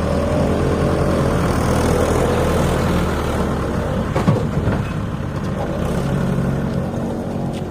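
Heavy diesel engine running steadily, its pitch shifting briefly midway, with a short sharp clunk about four seconds in.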